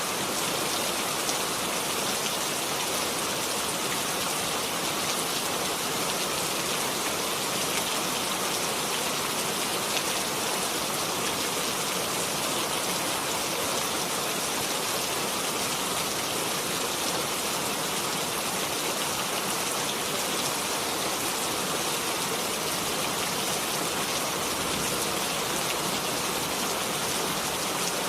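Steady, even rainfall hissing on surfaces, with no change in strength.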